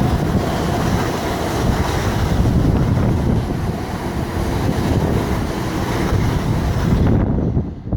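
Train passing close by at a station platform: a loud, steady rumble and rush of air with wind buffeting the microphone. Near the end the high hiss cuts off suddenly.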